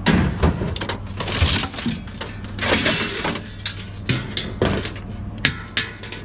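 Scrap being broken apart and handled: irregular crunching, cracking and clattering with sharp knocks, over a steady low hum.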